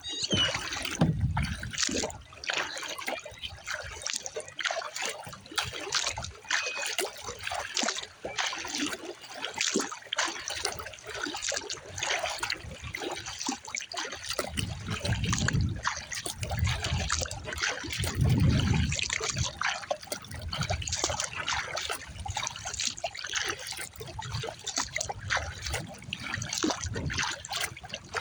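Water splashing and trickling off a kayak paddle as it dips in stroke after stroke, with low rumbles of wind at times, strongest about two-thirds of the way through.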